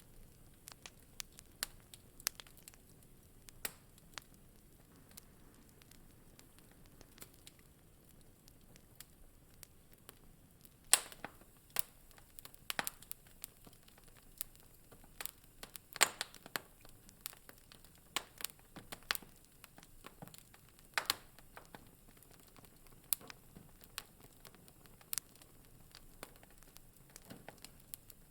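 Wood fire crackling in a fireplace: irregular sharp pops and snaps over a low steady background, with a few louder pops now and then.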